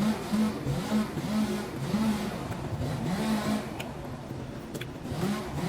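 A motor revving up and down again and again, its pitch rising and falling in repeated swells.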